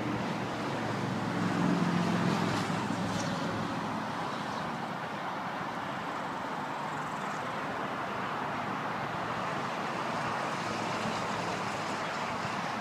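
A car's engine running close by, briefly louder about two seconds in, over a steady rush of road and traffic noise.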